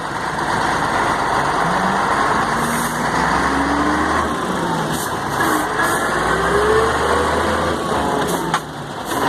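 Mercedes-Benz 1634 truck's drivetrain running under way, with a heavy growl and a whine that rises and falls in pitch several times. This is the noise that comes only when the accelerator is released in gear, which the mechanic traces to the differential.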